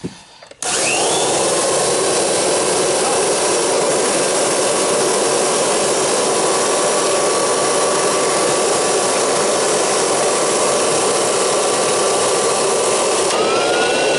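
Kirby Heritage II vacuum motor switched on about half a second in and running steadily and loudly, with a whine that settles into a steady pitch. Near the end the whine shifts up in pitch and then starts to fall. The machine has the shampooer attachment fitted, and enough air bleeds off that the airflow is not badly restricted.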